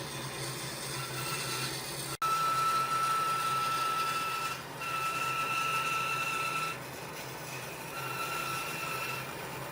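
A power tool running with a steady high whine that cuts in and out several times over a hiss of workshop noise, with one abrupt break about two seconds in.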